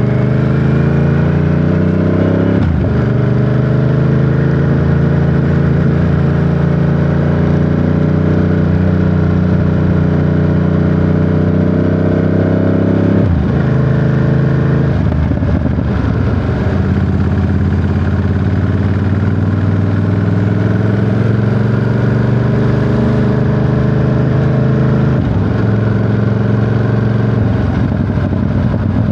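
Ducati Monster 937's 937 cc Testastretta L-twin engine riding under way, pulling through the revs with three sharp drops in pitch at upshifts, about 3, 13 and 25 seconds in, and running steadily between them.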